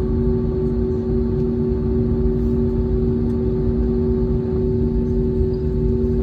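Airbus A321 jet engines running at idle, heard inside the cabin as a steady drone with two constant humming tones over a low rumble.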